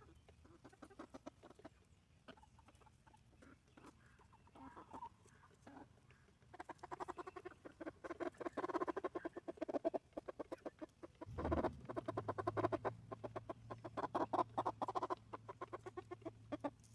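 Chickens clucking quietly in rapid runs of clucks. A low steady hum comes in about two-thirds of the way through.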